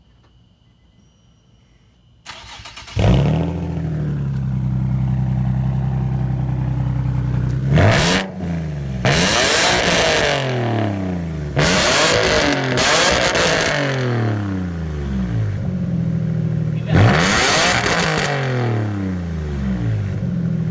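Nissan VQ-series V6 with an aftermarket exhaust cranked by its starter and catching with a loud flare about three seconds in, then idling. It is revved several times, the revs climbing and dropping back to idle, with a cluster of quick blips in the middle.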